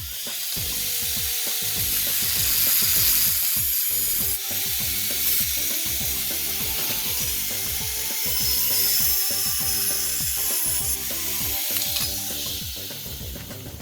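Power tool working metal, a loud steady high hiss that starts abruptly and fades near the end, over background music.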